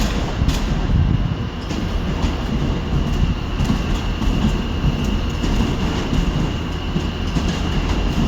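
Train moving through a station platform, with a steady low rumble and a thin, high, steady whine throughout. A couple of clicks come near the start.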